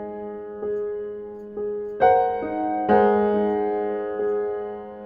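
Background music: slow, gentle solo piano, chords struck every second or so and left to ring.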